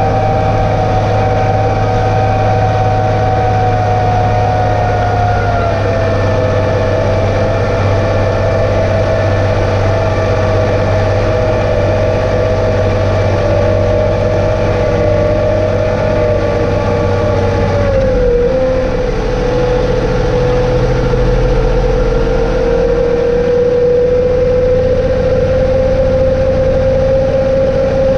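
John Deere 2032R compact tractor's three-cylinder diesel running steadily under load, with a loud high whine that drops in pitch about five seconds in and again about eighteen seconds in, then slowly climbs.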